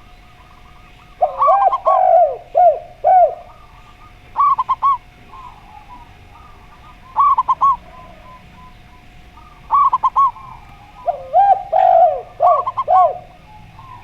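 Zebra dove and spotted dove cooing in turn. The zebra dove gives short, quick, higher coo phrases every two to three seconds. The spotted dove twice gives a longer, lower phrase of falling coos, about a second in and near the end, and a faint steady tone runs underneath.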